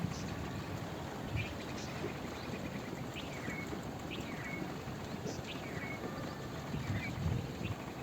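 Short chirping bird calls, each dropping quickly in pitch, repeated about once a second over a steady hiss of rain.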